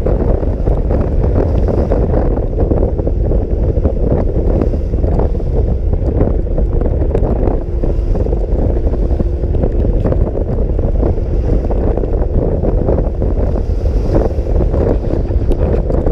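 Wind buffeting the microphone of a rider on a motor scooter at speed in heavy rain: a loud, steady rumble that covers the engine, with brief crackles scattered through it.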